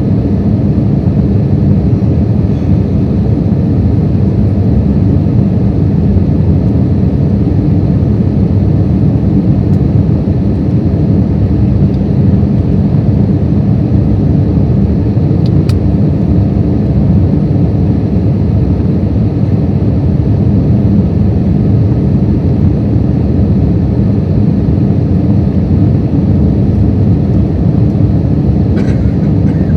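Cabin noise inside an Airbus A320 on final approach with the landing gear down: a loud, steady low rumble of engines and rushing airflow.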